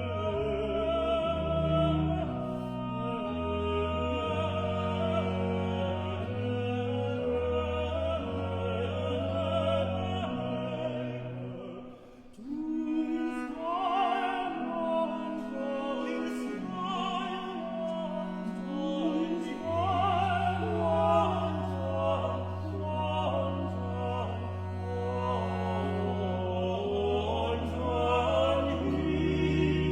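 Baroque vocal chamber music: a countertenor and tenor duet with instruments over a sustained bass line. The music thins to a brief pause about twelve seconds in, then carries on.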